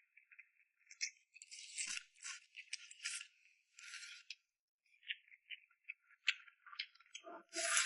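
Close-miked eating sounds: chewing and wet mouth noises in short, irregular crackly bursts, with a louder burst near the end.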